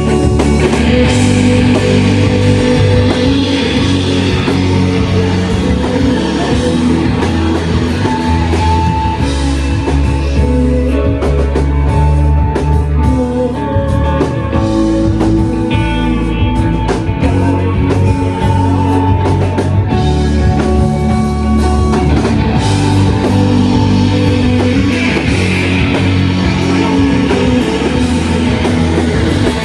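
A rock band playing live: dense, loud distorted electric guitars over bass and drum kit in a heavy shoegaze style, with sustained layered guitar tones.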